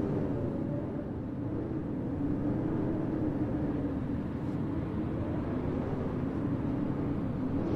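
Steady low rumble of blizzard wind, with a hum that wavers slightly in pitch.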